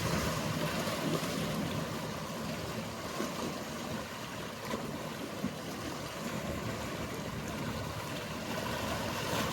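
Seaside ambience: water washing and lapping steadily, under the low, steady hum of a boat's engine.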